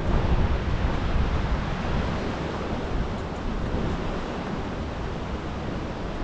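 Steady rushing noise of wind and fast-moving floodwater, heaviest in the low rumble, with wind buffeting the microphone.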